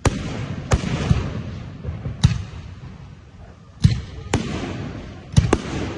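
Fireworks going off: a string of about eight sharp bangs at uneven intervals as shells launch and burst, each bang followed by a short echo.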